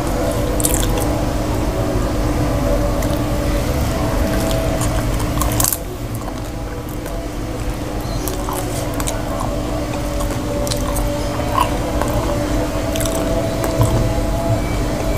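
Close-miked chewing of a mouthful of potato-and-cauliflower curry with flatbread: wet, squishy mouth sounds with small clicks. A steady low hum runs underneath.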